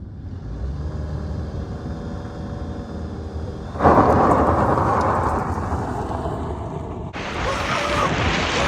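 Vehicle engine running steadily, then suddenly much louder under heavy throttle about four seconds in. A hissing rush joins it about seven seconds in.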